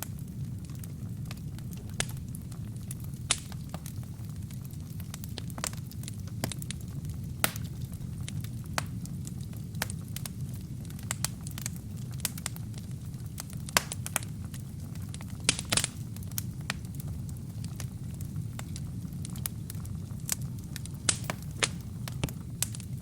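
Wood fire burning in a fireplace: a steady low rumble of flames with irregular sharp crackles and pops from the burning wood and kindling, including a brief cluster of pops a little past the middle.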